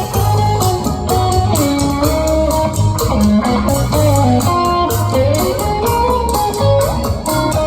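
Live band playing an instrumental passage: an electric guitar picks out a lead melody over bass guitar and steady drums.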